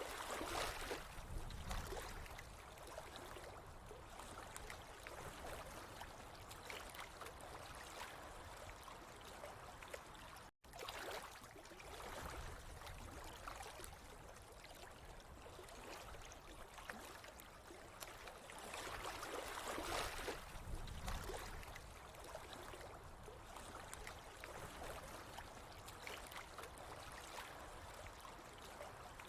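Water trickling and gurgling steadily, swelling louder near the start and again about two thirds of the way through, with a split-second dropout about a third of the way in.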